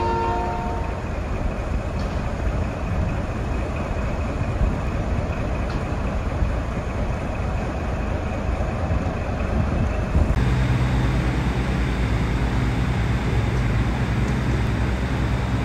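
Diesel train running: a steady rumble and rattle of the moving train. About ten seconds in the sound changes abruptly and a steady low engine drone comes in.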